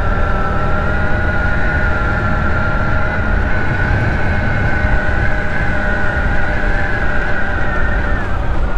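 Ice Bear Hawkeye 150cc scooter's GY6 single-cylinder four-stroke engine running steadily at cruising speed, its pitch easing down near the end as it slows.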